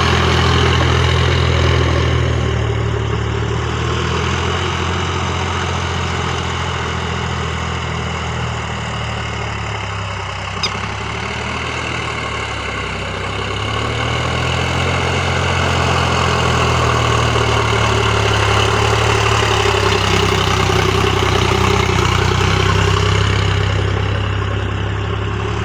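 Sonalika tractor's diesel engine running steadily. It eases off for a few seconds about a third of the way in and picks up again. There is one sharp click near the middle.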